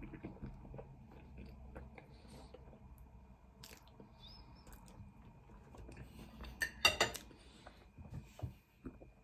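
Close-up chewing and mouth noises of a person eating baked beans, with small clicks throughout. About seven seconds in, a short, loud clatter of metal cutlery being set down on the plate.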